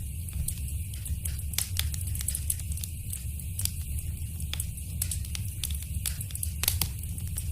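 Fireplace fire crackling, with frequent irregular sharp pops over a low steady rumble.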